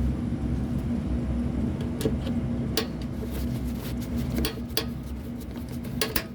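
Scattered light metallic clicks and clinks, as of hand tools and metal parts being handled, over a steady low hum.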